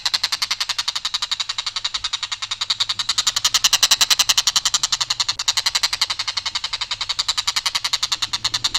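Tengkek buto kingfisher giving a long, harsh, rapid rattling call of about a dozen notes a second, kept up unbroken on one even line without variation.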